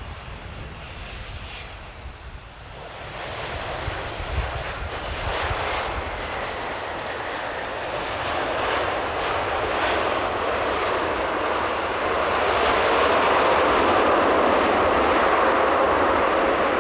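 Jet engines of a landing Boeing 787-8 Dreamliner approaching, a steady roar that starts about two seconds in and grows steadily louder, loudest near the end. Strong wind buffets the microphone underneath with a low rumble.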